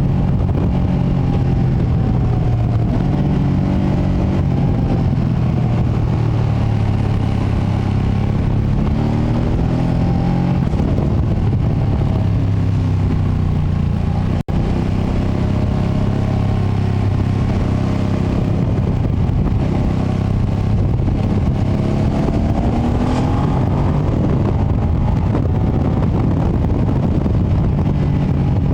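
The 2025 Ducati Panigale V2S's stock-exhaust V-twin heard from on board while riding, its revs rising and falling as the bike accelerates and eases off, over heavy low wind rumble. The sound cuts out for a moment about halfway through.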